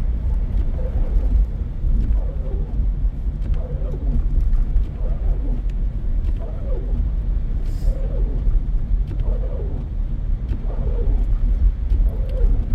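2006 Toyota 4Runner 4x4 driving on snowy roads: a steady low rumble of engine and road noise.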